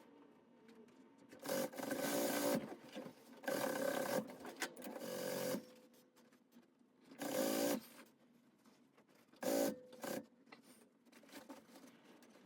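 Upholstery sewing machine stitching in stop-start runs: about four bursts of one to two seconds, with a couple of shorter ones near the end and short pauses between them.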